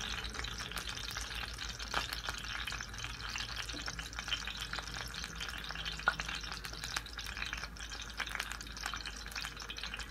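Sardine fishballs frying in shallow oil on low heat: a steady crackling sizzle. A metal spoon moves through the pan at first, and there are a few sharp clicks about two and six seconds in.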